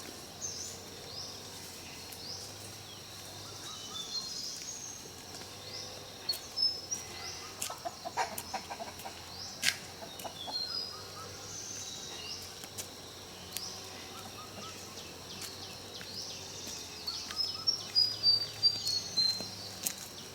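Birds chirping outdoors: short, high chirps and trills repeated again and again, busiest near the end, with a few sharp clicks.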